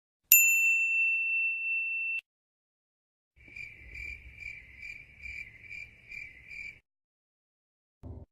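A bright bell ding that rings for about two seconds and then cuts off. A moment later comes a cricket chirping sound effect: about eight chirps, two or three a second.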